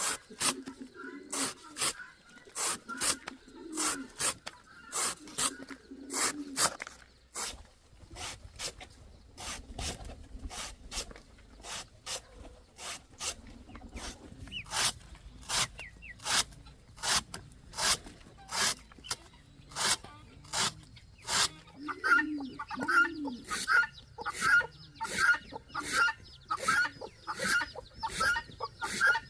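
Chickens clucking on a farm, the calls strongest in the last seven seconds, against a steady train of sharp knocks about one and a half times a second.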